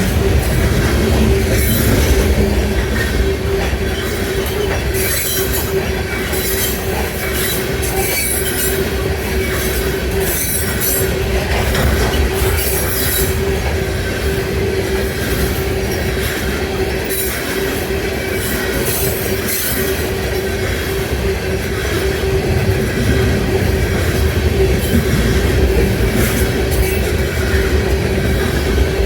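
A train rolling past at close range: steady rumble of railcar wheels on the rails, with a steady ringing tone and repeated short high-pitched wheel screeches.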